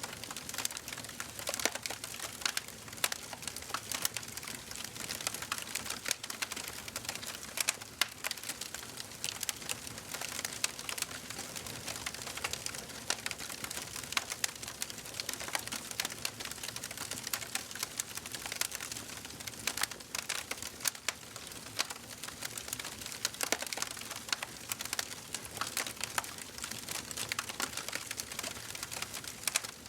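Wood fire crackling in a fireplace: a steady hiss of flames with frequent irregular sharp pops and snaps.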